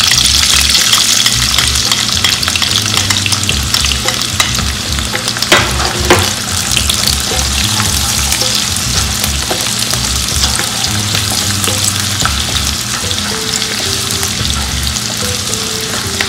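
Sliced garlic and ginger sizzling in hot oil and butter in a nonstick wok while a spatula stirs them, with steady crackling throughout. Two sharp knocks come about a third of the way in.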